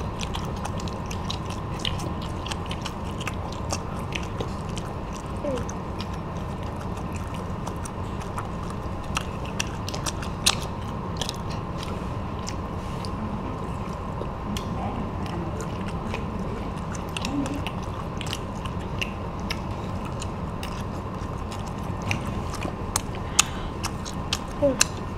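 Children biting into and chewing crispy deep-fried battered shrimp and sausages: scattered sharp crunches and chewing sounds over a steady low background hum.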